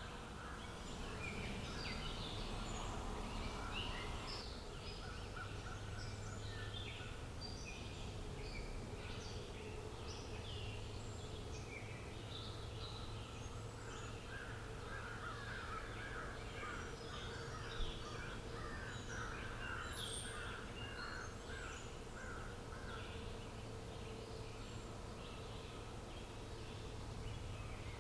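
Several wild birds chirping and singing at once, short calls overlapping with a rapid trill of repeated notes in the middle. A steady low hum runs underneath, and there is one sharp click about two-thirds of the way in.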